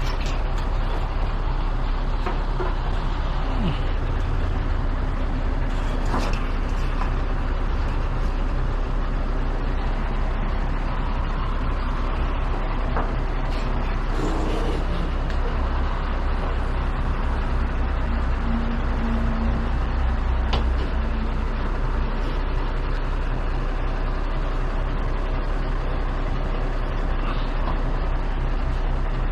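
Heavy truck's engine running steadily, a constant low drone with a few faint clicks and knocks over it.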